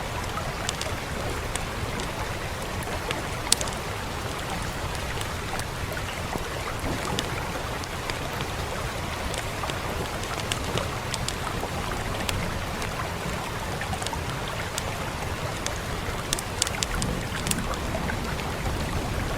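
Fire crackling with scattered sharp pops, over a steady rush of rain. The pops cluster about three seconds in and again near the end.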